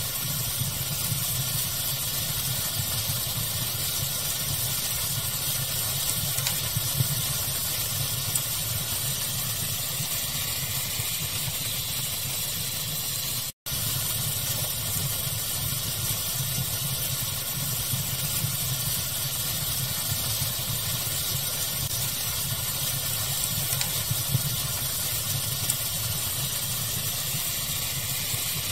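Steady pink-noise hiss blended with a fire's crackle, with an occasional small pop. The sound cuts out for an instant about halfway through.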